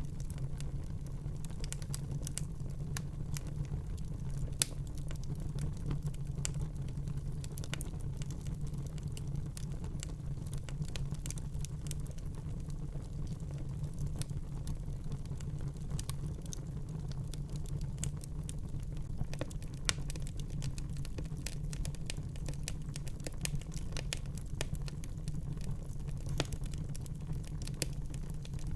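Wood fire burning in a fireplace: a steady low rumble of the flames with dense, irregular crackles and pops, one sharper pop about four and a half seconds in.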